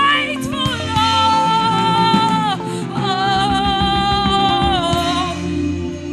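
Gospel singing: a voice holds two long notes with vibrato, each sliding down at its end, over steady keyboard and bass accompaniment.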